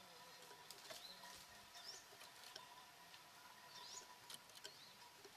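Faint bird calls: a handful of short, high chirps, each rising quickly in pitch, with scattered sharp clicks.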